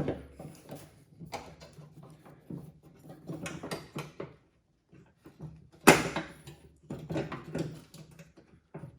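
Hands working a new drive belt onto the pulleys of a riding-mower deck: scattered metal clicks and knocks as the parts are handled. The loudest is a single sharp knock about six seconds in.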